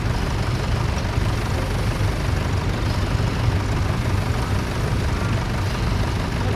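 Tractor engine running steadily, a continuous low drone with no change in speed.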